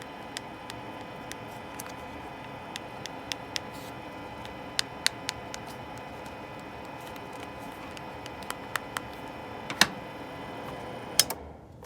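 SmartDevil 800 W mini space heater's fan running with a steady whir and faint hum, with scattered sharp clicks over it. The fan noise cuts off about eleven seconds in.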